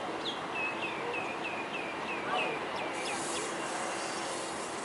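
A small bird calling repeatedly in short, downward-slurred notes, about four a second, which stop about two and a half seconds in, over a steady background hiss.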